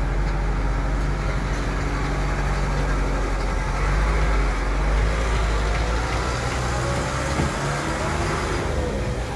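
A large vehicle engine running steadily with a low hum, which drops away about seven and a half seconds in, with a wavering whine rising and falling over it.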